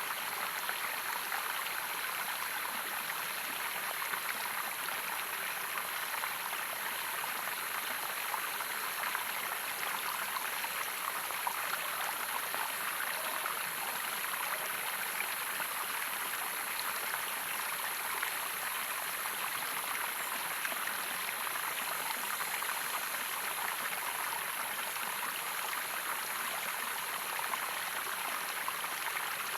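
Running water of a stream, a steady even rush and splash that does not change.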